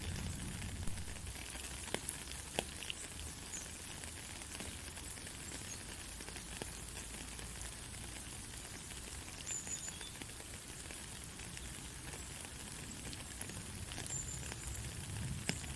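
Steady heavy rain with scattered sharp drop ticks, and a low rumble near the start that swells again near the end.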